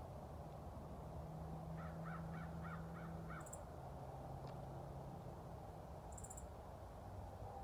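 Faint bird call: a quick run of about six rough, repeated notes lasting under two seconds. Two brief, very high chirps follow, over a steady low hum.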